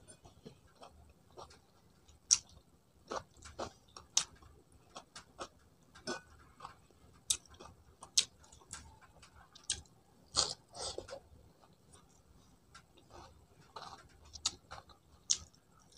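A person chewing and smacking while eating rice and chicken by hand: irregular short mouth clicks and smacks throughout, a few louder ones standing out.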